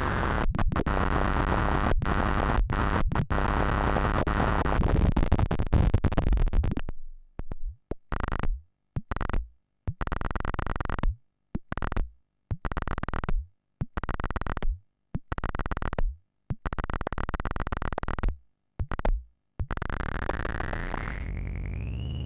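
Frog semi-modular synthesizer playing dry with its two oscillators, sample-and-hold and multi-mode filter. A harsh, noisy drone runs for about seven seconds, then is chopped into irregular bursts with silent gaps between them. About three seconds before the end it runs continuously again, with a tone rising in pitch near the end.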